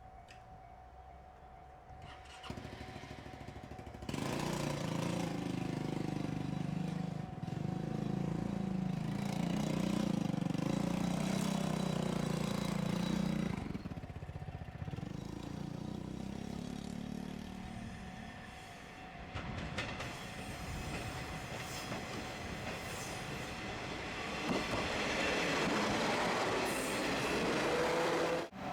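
Diesel train on JR Shikoku's non-electrified Dosan Line passing through a level crossing. Its engine drone comes in loud about four seconds in and holds for about ten seconds. After a lull, a second, broader rush of train noise builds from about twenty seconds in and cuts off suddenly near the end.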